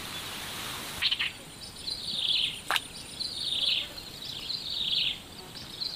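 A bird calling over and over, a short falling note about once a second, over the quiet hiss of swamp background. A single sharp click comes near the middle.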